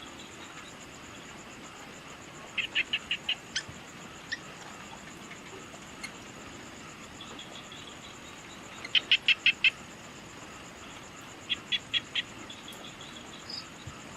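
Evening nature ambience: insects trill steadily in a high, finely pulsing drone. Three times, an animal gives a short run of five or six rapid, sharp calls, the loudest sounds here.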